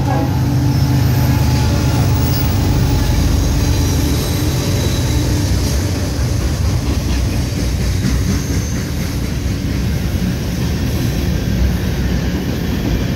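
Freight train passing close by. The diesel locomotive's engine drone is heard first, then the steady rumble of the hopper and tank cars' wheels rolling along the rails.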